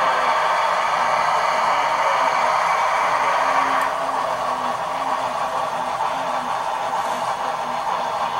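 HO scale Shay model locomotive running, its LokSound 5 sound decoder playing steam-locomotive sound: a steady rushing noise that thins a little about four seconds in.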